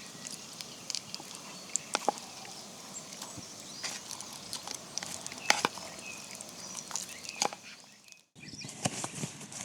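Scattered sharp clicks and knocks, irregular and a few of them loud, over a steady outdoor hiss; the sound drops out briefly just past eight seconds.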